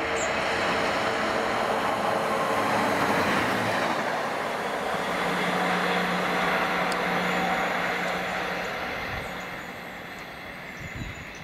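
Single-car Class 153 diesel multiple unit passing through the station at speed: engine running and wheel noise on the rails, loudest over the first several seconds, then fading as it draws away. A steady low engine note stands out from about five seconds in.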